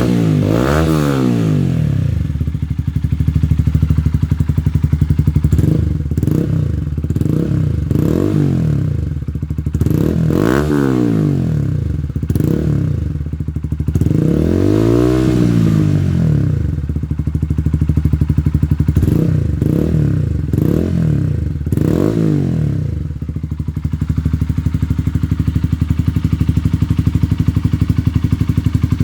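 Honda CBR125's single-cylinder four-stroke engine running through a Scorpion exhaust with the baffle removed. It idles and is blipped up and down in a series of short revs, the biggest about fifteen seconds in, then settles back to a steady idle for the last few seconds.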